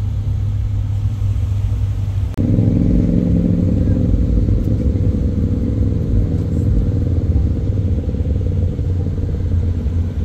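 Car engines running at low speed as cars roll in at a car meet; the first are Honda S2000s. About two and a half seconds in, the sound breaks sharply and a closer, louder engine takes over, running steadily.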